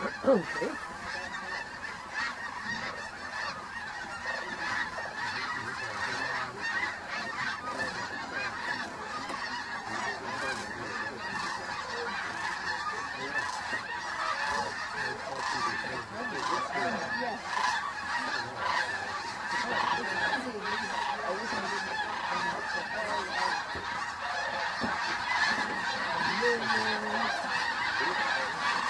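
A large flock of snow geese calling, a dense chorus of many overlapping honks that never lets up and swells slightly near the end.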